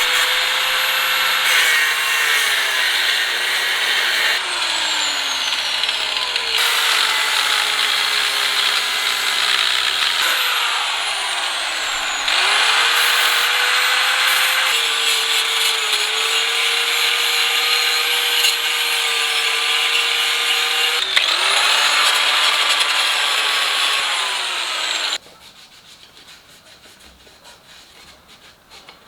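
An electric power tool, likely an angle grinder, working metal, its motor pitch dipping under load and recovering. It comes in several abruptly cut stretches and stops suddenly near the end.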